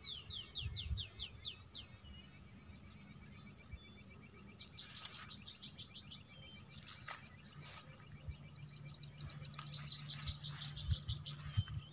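Birds singing: rapid runs of short, high chirps, each sweeping downward, repeated over and over, faint. A faint low steady hum runs underneath in the second half.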